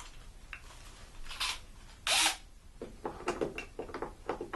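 Tools being picked up and handled, with a run of clicks and clattering and one short loud burst about two seconds in.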